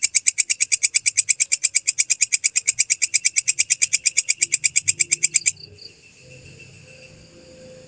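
Walang kecek (belalang kecek) insect calling: a fast, steady train of shrill clicking pulses, about nine a second, that stops abruptly about five and a half seconds in. Faint background follows.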